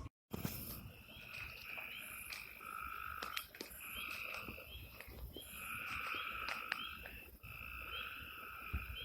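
A chorus of frogs trilling in overlapping calls about a second long each, one after another.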